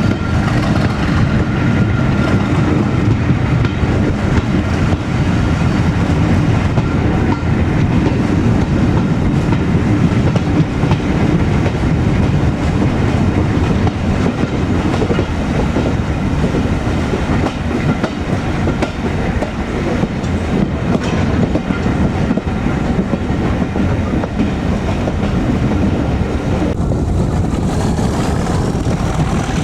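Passenger train running along the line behind a Class 37 diesel locomotive, heard from a carriage: steady wheel-on-rail rumble and clatter under the diesel's working engine.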